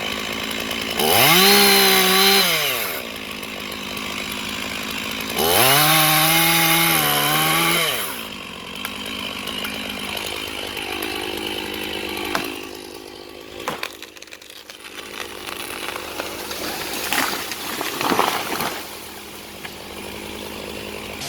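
Chainsaw revved up to full throttle twice, each run lasting about two seconds, and idling in between. From about halfway through it is quieter and uneven, with a few knocks.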